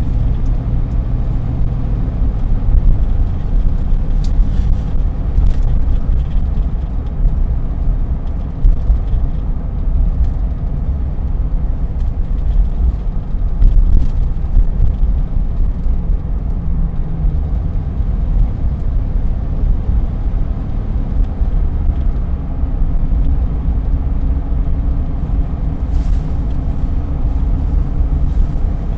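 Chevrolet Silverado 1500 4x4 pickup driving: a steady low rumble of engine and road noise, with a few faint clicks here and there.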